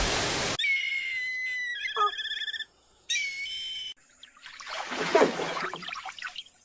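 A series of short, high whistle-like tones that start and stop abruptly, one of them warbling, followed about four seconds in by a couple of seconds of irregular, noisy splashing-like sound.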